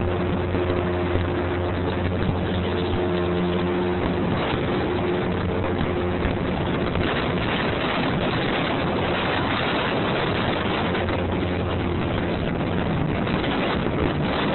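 Motorboat engine running steadily under a loud rushing noise of storm wind and water. About four seconds in, the engine's hum fades and the rushing noise takes over.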